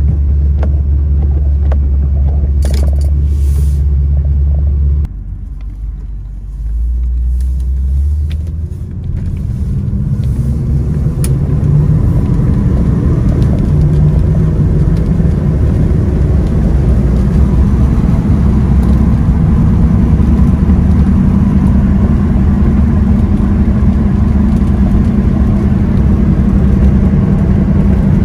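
1978 Chevrolet Corvette's V8 engine running with a steady low rumble. About five seconds in, the sound drops off suddenly, then builds back over several seconds into a fuller, steady rumble, as when the car is under way.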